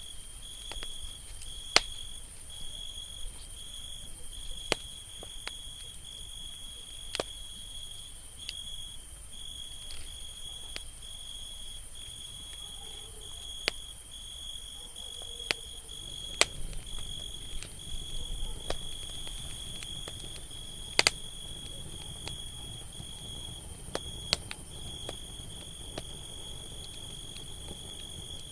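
Campfire crackling, with scattered sharp pops of different strengths, over a steady high-pitched insect trill broken into short pulses.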